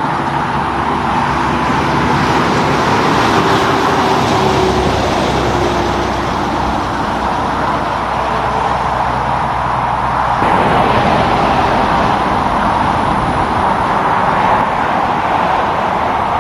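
Road traffic passing, heavy trucks among it: an engine drone with a slight falling pitch for the first ten seconds or so, then a sudden change to steady tyre and road rush.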